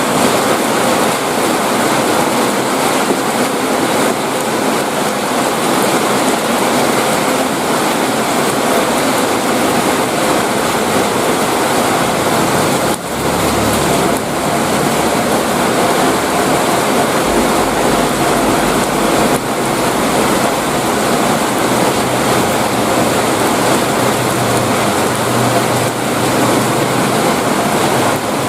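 Heavy rain falling in a steady, loud downpour. A low rumble joins underneath about halfway through and carries on to the end.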